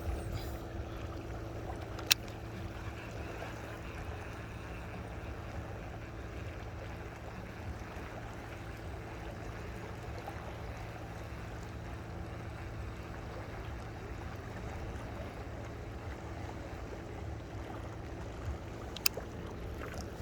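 Small boat engine running steadily with an even hum, with two sharp clicks, one about two seconds in and one near the end.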